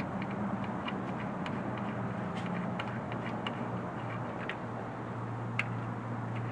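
Scattered light clicks and clinks of hand tools during an engine teardown, a dozen or so at irregular intervals, over a steady low hum.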